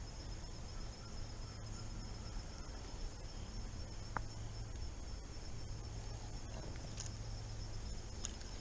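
Insects chirping steadily in a high, even drone over a low steady rumble, with a single sharp click about four seconds in.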